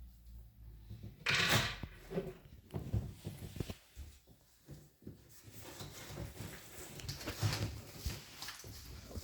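Handling noises from the TV's packaging being worked on: scattered knocks and scrapes, with a louder short rustle or scrape about a second and a half in.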